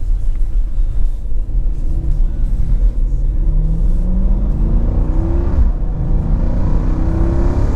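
2017 Jeep Grand Cherokee SRT's 6.4-litre HEMI V8, with its mid-muffler deleted for a 3-inch X-pipe, heard from inside the cabin as the Jeep accelerates: a deep exhaust rumble whose pitch climbs, drops at an upshift about two-thirds of the way in, then climbs again and drops at a second upshift near the end.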